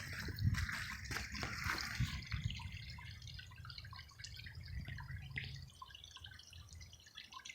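Pump-fed water-feature waterfall, about 940 gallons an hour falling five feet, splashing and dripping in an irregular patter, busier in the first two seconds and sparser after: a modest flow rather than rapids.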